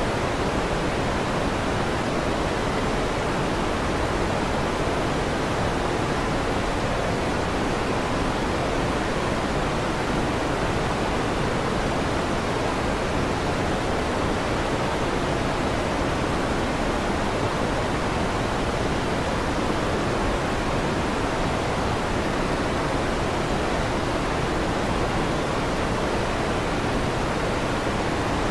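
Electric fan running, a steady whooshing noise that stays even throughout, weighted toward the low and middle range with no rise, fall or break.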